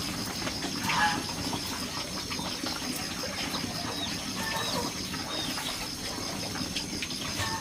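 Farmyard birds calling in short, scattered chirps over a steady high-pitched pulsing trill.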